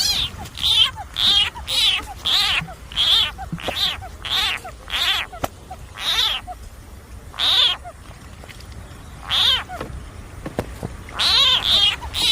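Frog calling: a run of short, high, wavering calls, about two a second at first, then spaced out with longer pauses, picking up again near the end.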